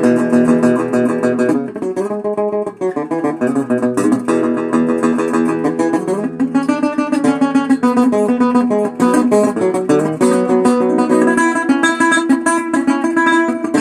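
Guitar playing an instrumental ending with no singing, strummed and picked notes following one another in quick succession.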